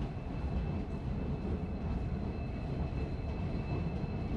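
Passenger train slowly pulling out along the platform: a steady low rumble of coaches rolling over the rails, with a faint steady high whine over it.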